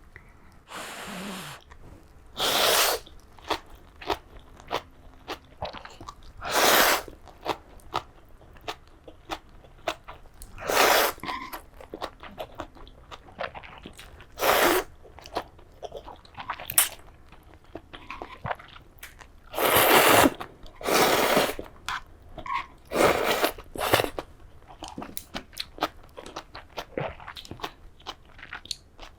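Close-miked eating of tonkotsu ramen: repeated loud slurps, with crunchy chewing and small mouth clicks in between.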